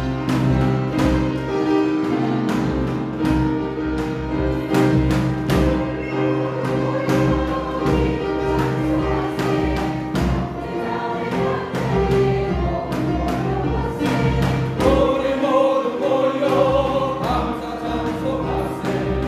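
Choir singing a thanksgiving anthem over orchestral accompaniment with a steady low beat; the voices come through more strongly about three-quarters of the way in.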